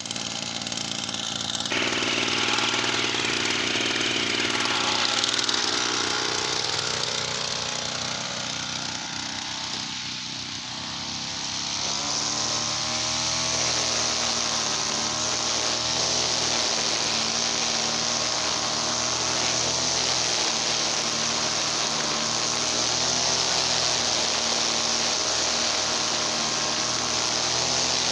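Small petrol brush cutter engine running continuously at speed, its pitch wavering a little. About twelve seconds in the sound shifts abruptly and settles into a steadier run.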